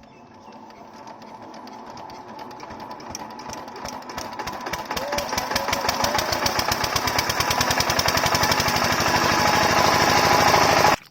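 Single-cylinder 8 HP diesel water-pump engine running up to speed, its knocking firing beat getting steadily faster and louder. It cuts off abruptly near the end.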